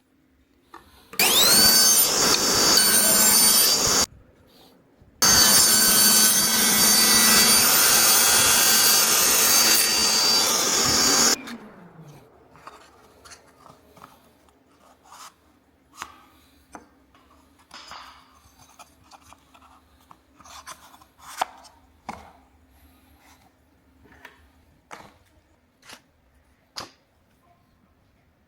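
Electric power tool cutting wood in two runs. It starts about a second in with a rising whine, stops briefly near four seconds, runs again for about six seconds, then winds down. Scattered light taps and knocks follow.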